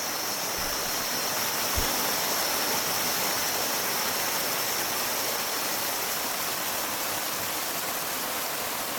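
Steady rush of running water, an even hiss-like noise with no distinct events.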